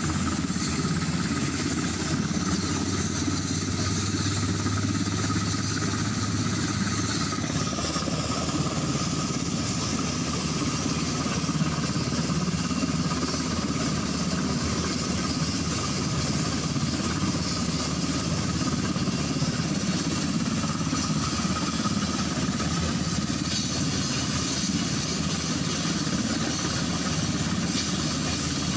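Black Hawk helicopter engines running steadily: a continuous mechanical din with a faint steady whine. A low hum underneath drops away about seven seconds in.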